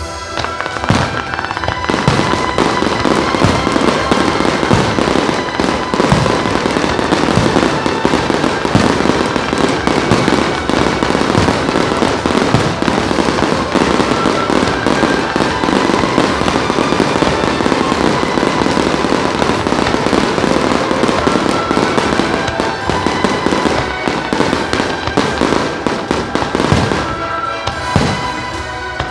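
A dense barrage of aerial fireworks: bangs and crackling shell bursts come thick and fast from about a second in and thin out near the end. Show music plays underneath.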